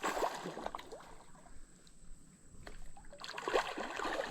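Creek water sloshing and trickling with light splashes as a big hooked fish is brought in at the water's edge.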